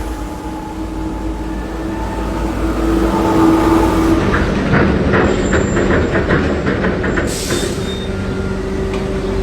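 A machine running with a steady hum. About four seconds in comes a quick run of rhythmic metallic clacking lasting a few seconds, then a short hiss.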